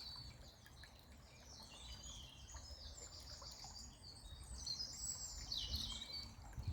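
Small birds singing, with many short overlapping high chirps and a falling note near the end, over a faint low rumble.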